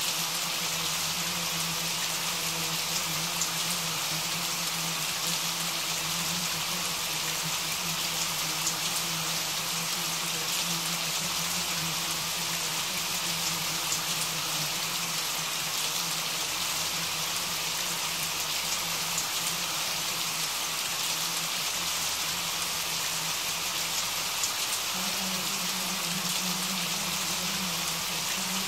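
Steady rain falling, an even continuous hiss of many drops. A steady low hum runs beneath it and shifts slightly higher near the end.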